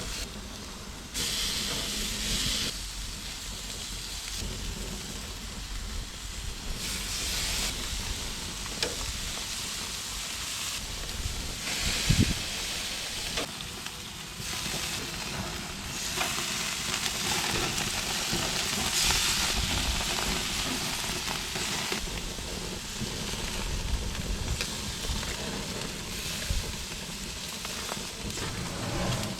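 Marinated barbecue meat sizzling steadily on a hot grill, with a single knock about twelve seconds in.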